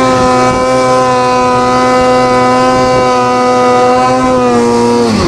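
Snowmobile engine held at high, steady revs while the sled runs through deep powder, a single steady high-pitched drone. The revs fall off just before the end.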